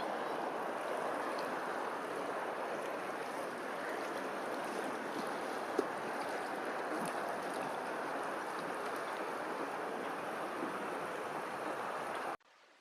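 Steady rushing of water, with one brief click about six seconds in; it cuts off abruptly near the end.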